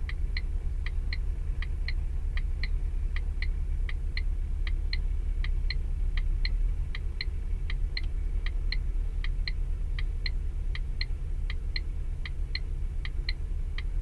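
Short high-pitched beeps repeating quickly and regularly, about three a second, over a steady low rumble.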